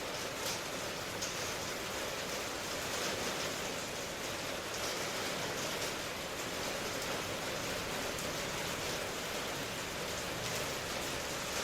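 Steady rain falling, an even hiss with faint scattered drop patters throughout.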